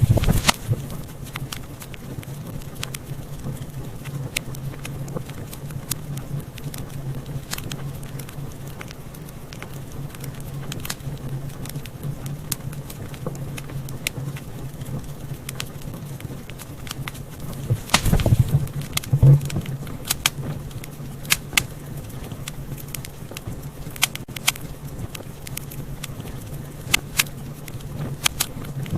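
Wood fire burning in a fireplace: a steady low roar of flames with scattered sharp crackles and pops, and a flurry of louder pops about eighteen seconds in.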